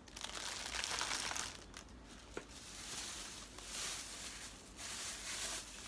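Thin plastic produce packaging crinkling in several bouts as it is handled, with one sharp tick about halfway through.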